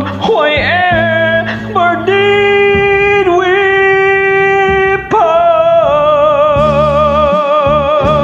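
Music: the close of a slow ballad, a voice holding a few long notes with vibrato over a sustained backing track.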